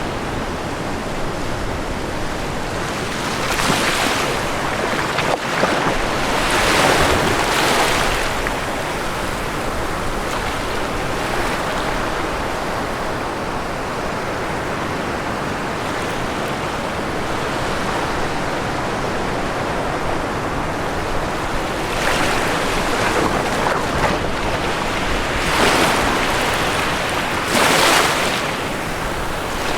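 Ocean surf: a constant wash of waves with two sets of louder breakers, the first about four to eight seconds in and the second from about twenty-two seconds to near the end.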